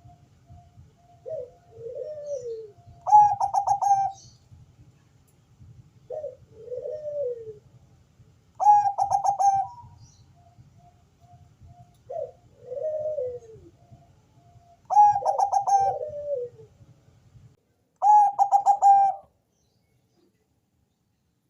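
Zebra dove (Bangkok perkutut) singing: four repeated phrases, each a soft falling coo followed by a loud, rapid stuttering run of coos, over a low hum that stops near the end.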